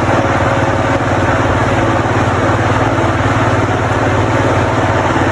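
Big electric fan running loudly and steadily: a constant low hum under an even rush of air.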